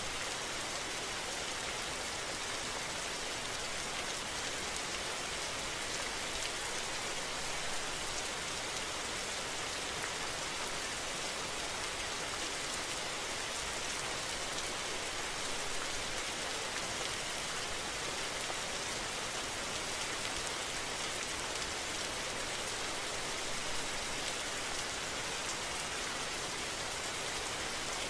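Steady rain falling, an even patter without a break.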